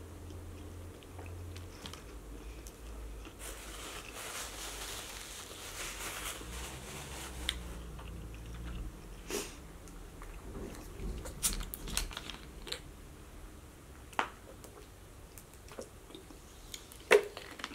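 Chewing a mouthful of burger, with soft wet mouth noises and a few sharp clicks scattered through, the loudest a short spike near the end.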